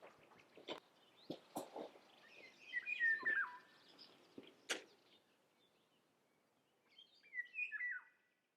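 A songbird singing two short phrases of whistled notes that step downward, the second near the end. Several sharp clicks and knocks come in the first half.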